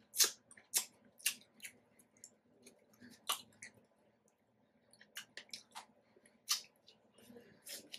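Close-miked chewing of a piece of juicy fruit: a string of short, wet, crunchy bites and mouth smacks at an uneven pace, pausing for about a second just before the middle.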